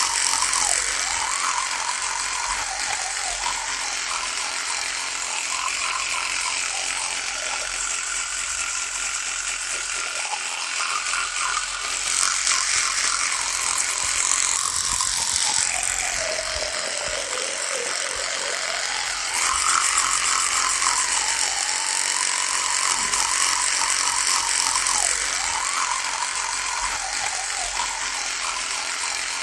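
Electric toothbrush running with a continuous buzz whose pitch keeps wavering up and down, sinking lowest about halfway through before climbing back.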